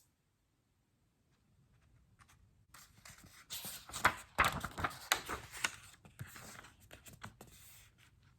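Paper rustling and soft clicks as a picture book's pages are handled and turned, a busy run of short scrapes that starts a few seconds in and tails off near the end.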